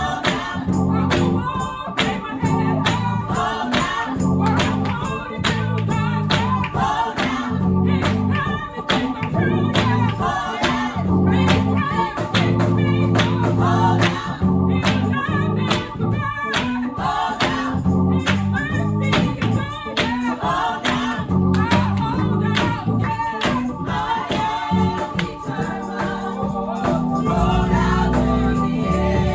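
Gospel music in a church service: voices singing over instruments with sustained bass notes and a steady beat.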